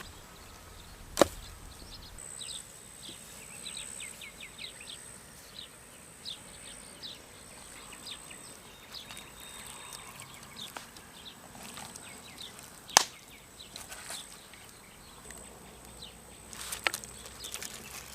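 A few sharp wooden knocks, like wood being chopped or struck: one about a second in, a louder one midway, and a short cluster near the end. Small birds chirp in between, over a faint steady high whine.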